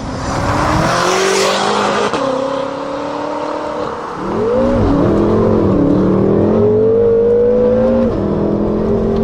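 BMW F10 M5's twin-turbo V8 through an Armytrix valved exhaust, accelerating hard. The pitch holds, dips about four seconds in, then climbs steadily and drops sharply near the end, as at a gear change.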